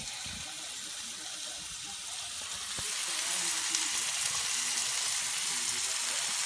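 Half-pound burger patty and small crispy potato rounds sizzling on a hot flat-top griddle, a steady hiss that gets a little louder about two and a half seconds in.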